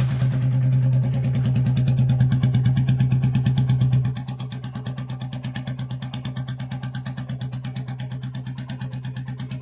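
Royal Enfield Bullet 350 single-cylinder engine idling through an aftermarket exhaust with an even, rapid thumping beat. It runs louder for about the first four seconds, then settles to a quieter steady idle.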